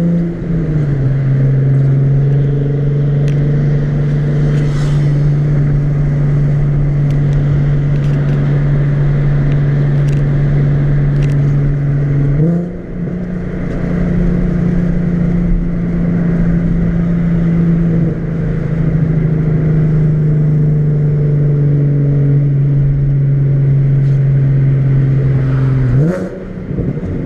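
Nissan 370Z's 3.7-litre V6 droning steadily while under way. The engine pitch drops right at the start, then jumps up about halfway through and again near the end, each time with a brief dip in loudness, like gear changes.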